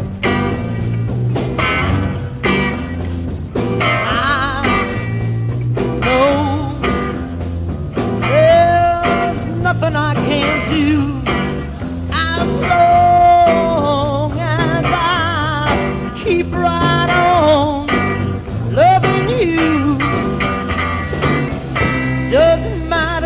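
A 1960s rock band playing a song live, with electric guitar, bass and drums keeping a steady beat. From about four seconds in, a lead line of held, wavering notes with bends rides over the band.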